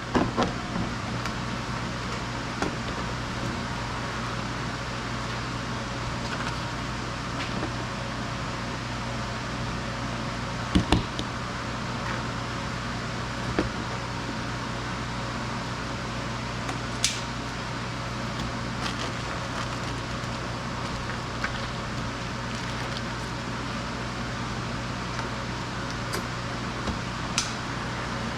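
Steady mechanical hum with a constant low tone, broken a few times by short sharp clicks or knocks.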